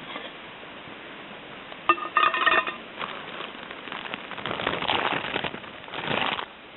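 Metal camp cookpots clinking. A ringing metallic clink comes about two seconds in, followed by several seconds of irregular clattering and scraping of pot and utensils.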